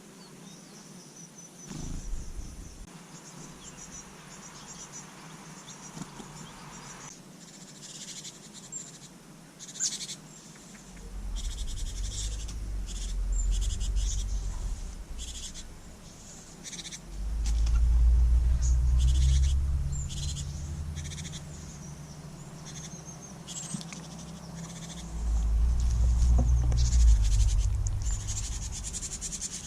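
Small songbirds chirping in short high calls at a water bath, over a thin steady insect chirr. Three long spells of low rumble come and go, the loudest sound.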